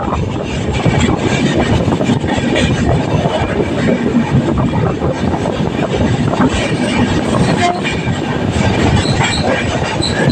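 Mumbai local electric train running: a loud, steady rumble with frequent short clacks throughout.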